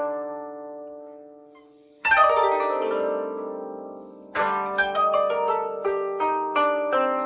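Koto being played solo. A plucked chord rings and fades, a sweep down across the strings about two seconds in rings on, and from about four and a half seconds in comes a run of quick single plucked notes.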